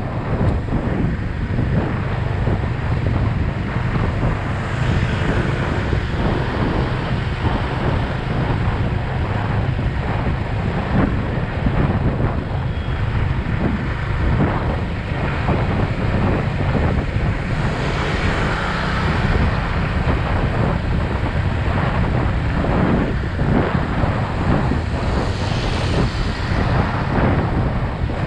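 Wind rushing over an action camera's microphone on a moving motorcycle, over the steady running of a Yamaha XSR 155's single-cylinder engine, with the noise swelling briefly a few times.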